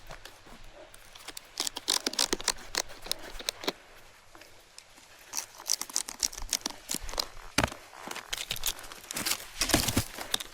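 Irregular crunching and crackling of crusty snow, in uneven bunches of sharp scrapes with a quieter stretch near the middle.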